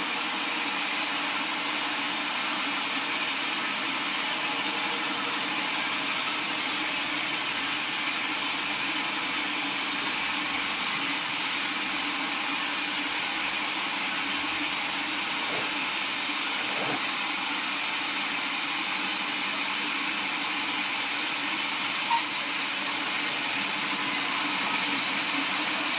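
Sawmill machinery running steadily with an even, hissing mechanical noise, and one short sharp click near the end.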